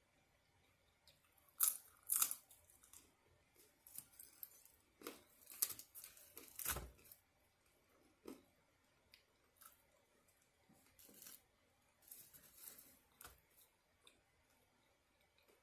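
Irregular tearing, crinkling and crunching noises from take-out food and its packaging being handled, in short bursts with quieter clicks between them.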